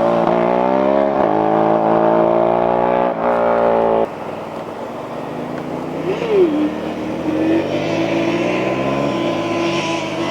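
Sport motorcycle engine running hard at high, fairly steady revs, its pitch wavering slightly. About four seconds in the sound drops abruptly to a quieter engine, which gives a quick rev about six seconds in.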